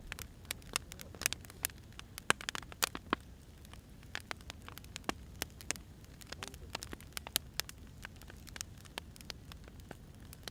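Firewood burning, crackling with irregular sharp pops and snaps over a low steady hiss.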